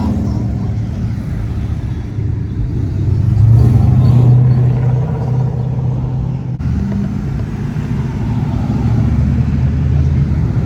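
Classic cars' engines running as they cruise slowly past, the loudest car passing about four seconds in.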